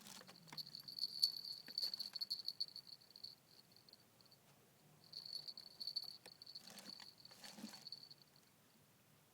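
An insect trilling with a steady high, pulsing note in two spells, pausing for a couple of seconds in between, with a few faint clicks of handling noise.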